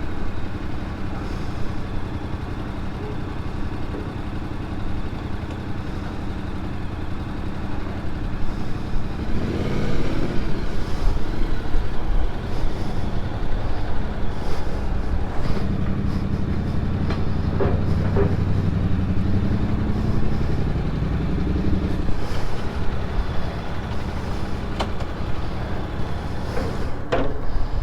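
Motorcycle engine running steadily under way, its pitch holding fairly even, with a stronger, louder stretch of engine note in the middle.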